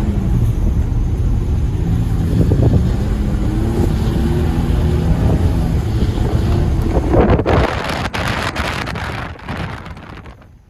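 Ford Ranger pickup's engine running as it drifts in snow, the revs rising and falling. About seven seconds in comes a rough rushing noise with crackles, which then fades away near the end.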